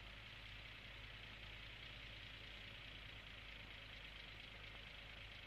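A Jaguar car's engine running steadily and faintly, under a steady hiss.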